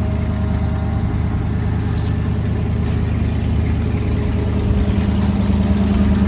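A farm vehicle's engine running steadily at low speed, a constant low hum. Its low tone grows a little stronger about two-thirds of the way through.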